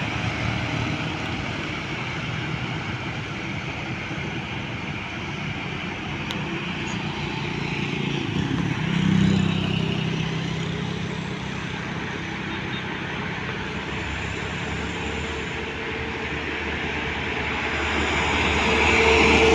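Road traffic passing: steady engine and tyre noise. A heavy vehicle's engine swells past about nine seconds in, and another vehicle approaches near the end.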